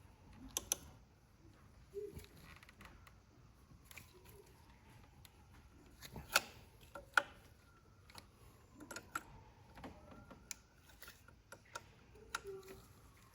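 Scattered metal clicks, taps and clinks of hand tools and parts being handled during injector work on a diesel engine, with two sharper knocks about six and seven seconds in.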